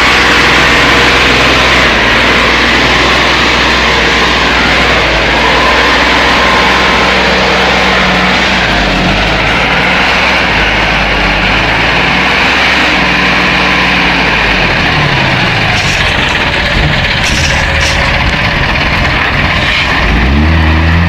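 Heavy logging truck's engine running, its pitch rising and falling several times as the revs change, over a steady noisy hiss.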